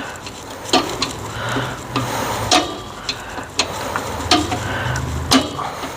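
Star-wheel brake adjuster inside a 1950 Ford F1's front drum brake clicking as it is turned a tooth at a time with a tool through the adjusting hole. There are sharp single clicks about once a second as the shoes are set out toward a slight drag.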